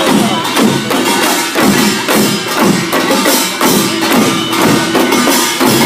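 Korean pungmul percussion band playing a steady, fast rhythm: metal gongs clanging over drum strokes.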